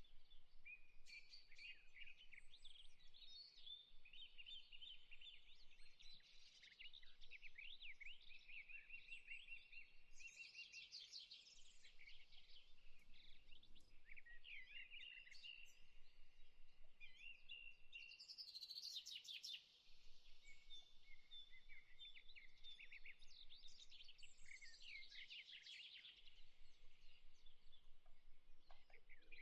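Faint chorus of songbirds, many overlapping chirps, trills and short whistled phrases.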